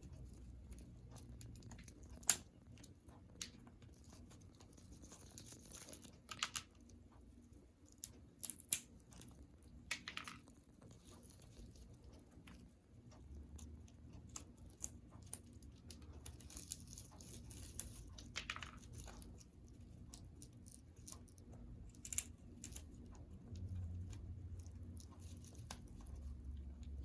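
Congo African grey parrot chewing and tearing at a chew toy: scattered sharp clicks and crunches, with a few short tearing sounds.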